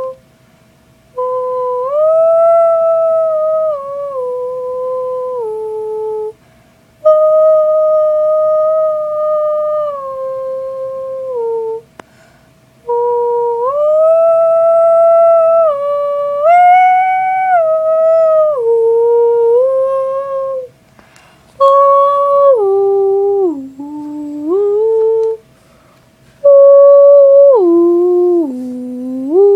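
A young girl's voice making weird noises: long hummed tones held steady, then stepping up and down in pitch, in about five phrases with short pauses between.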